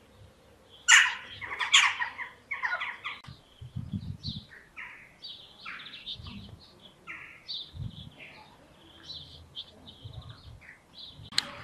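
Small birds chirping and calling in short, quick phrases, loudest about a second in, with a few soft low thuds in between.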